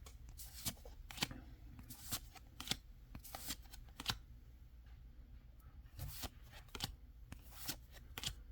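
Pokémon trading cards being flipped through by hand: faint, irregular clicks and slides of card on card, about one or two a second.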